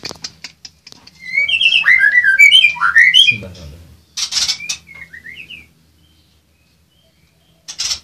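White-rumped shamas calling as the nest box is opened: a quick, loud run of rising chirps about a second in, then a short burst of harsh, rasping calls about four seconds in. Near the end it falls almost silent.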